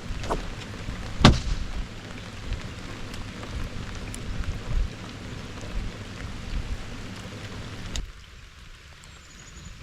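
Steady rain falling, with a low rumble of wind and rain on the microphone and a few sharp knocks, the loudest about a second in. The noise drops suddenly near the end.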